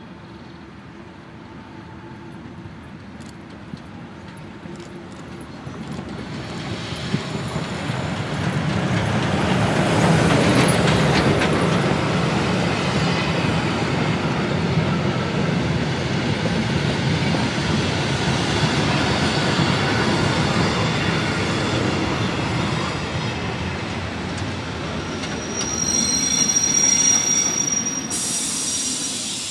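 Museum train approaching and rolling past: the rumble of wheels on the rails grows louder over the first several seconds and holds steady, with a high wheel squeal near the end.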